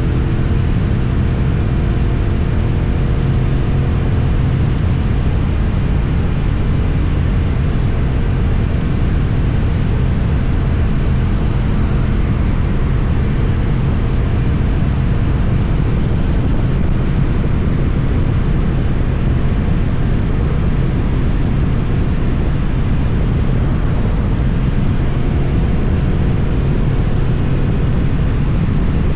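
Suzuki GSX-8TT motorcycle with an Akrapovic exhaust riding along, recorded on the bike: the engine note eases slightly in the first few seconds, then holds steady under a constant rush of wind on the microphone.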